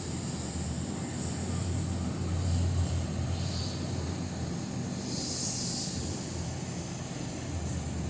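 Car wash equipment running: a steady low mechanical hum, with short bursts of high hissing spray, the strongest about five to six seconds in.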